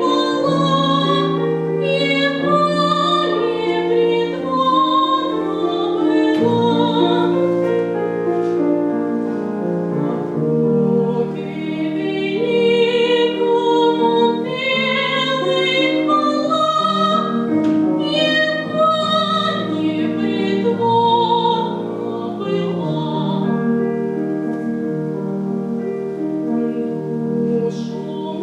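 A female singer in classical style, with vibrato on held notes, accompanied by piano.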